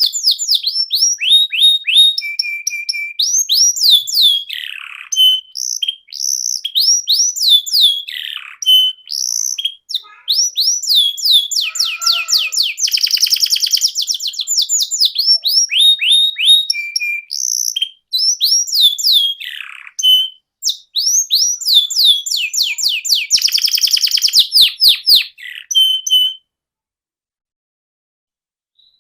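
Canary singing a long, loud, unbroken song of fast downward-sweeping notes, rapid trills and buzzy rolls. The song breaks off abruptly a few seconds before the end.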